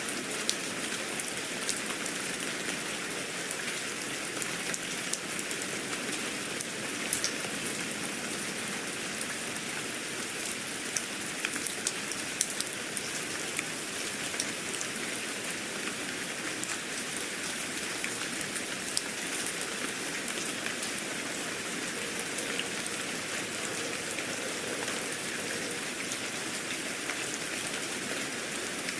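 Steady rain falling, with scattered sharp ticks of single drops striking a surface throughout.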